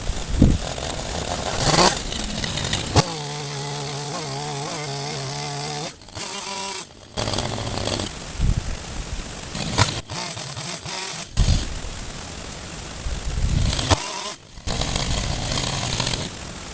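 Petrol chainsaw started and run: a few seconds in it settles to a steady idle, and later it runs noisier. The sound cuts off abruptly several times.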